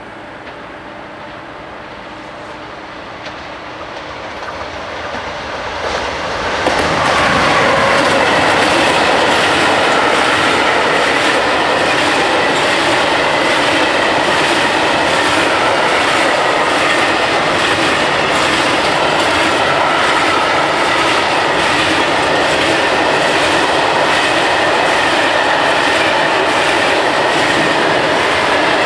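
Freight train approaching a level crossing and rolling past: the noise builds over the first six or seven seconds, then a long steady rumble of wagons with evenly spaced wheel clicks over the rail joints.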